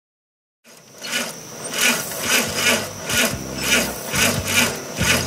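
Willys CJ-3A Jeep's four-cylinder flathead engine being cranked over by its starter, a rhythmic rasping about twice a second that begins after a second of silence.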